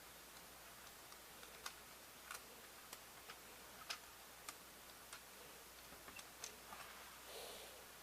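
Faint, small clicks, a little more than one a second and unevenly spaced, against near silence: a VHS cassette's parts being handled during a tape repair.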